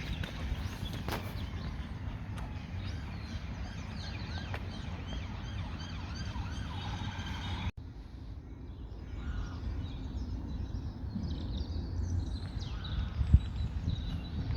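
Small birds chirping and singing, many short calls, over a low steady outdoor rumble. The sound drops out abruptly for an instant about eight seconds in, then carries on.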